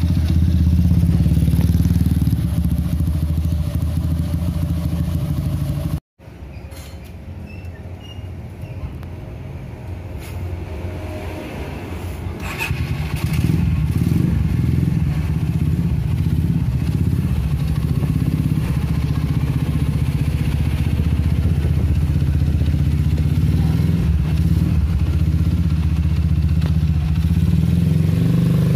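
Honda Megapro motorcycle engine, built up to 250cc (Herex), idling steadily through a PDK aftermarket racing exhaust with a deep, even exhaust note. The sound cuts out abruptly about six seconds in, returns quieter, and builds back to full strength by about thirteen seconds.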